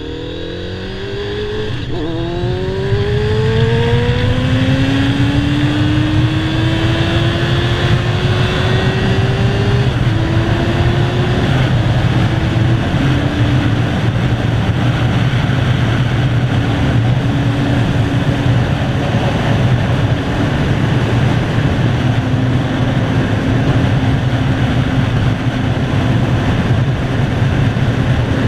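Kawasaki ZZR600's inline-four engine pulling hard, its pitch climbing through an upshift about two seconds in and on for several more seconds, then settling into a steady highway cruise. Heavy wind rush runs throughout.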